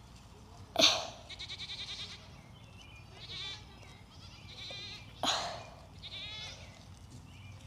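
Goat bleating four times in high, quavering calls, the first one long. Two loud sudden puffs of noise come about a second in and again past five seconds.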